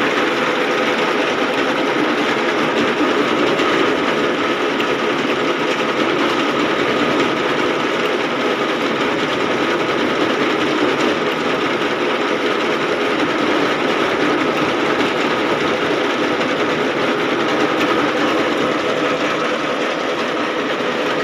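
Tractor engine running steadily with a fast mechanical clatter, as when the mounted reaper is driven.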